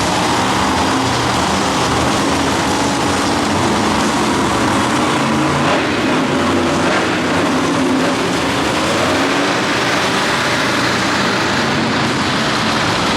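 Monster truck engines running loud, a steady dense noise with the engine pitch drifting up and down.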